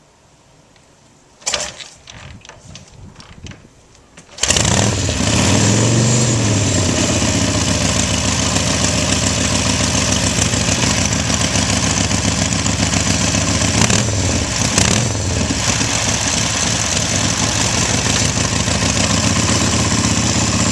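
Cold start of a 1956 Harley-Davidson KHK's 883 cc flathead V-twin, kick-started with the choke on and the spark retarded: a kick about a second and a half in, then the engine catches at about four and a half seconds and runs steadily, its note rising and settling just after it fires.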